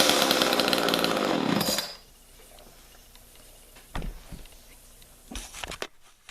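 Homelite two-stroke chainsaw running, then cutting out about two seconds in; its kill switch doesn't work, so it is stopped by choking it. A few faint knocks follow.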